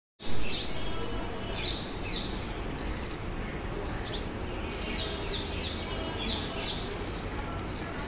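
A bird chirping over and over: about a dozen short, high chirps, each sliding down in pitch, the first one loudest, over a steady low background rumble.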